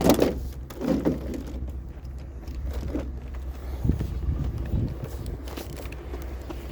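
Steady low hum of an idling vehicle, with a sharp knock at the start and several dull thumps about four to five seconds in as scrap is handled.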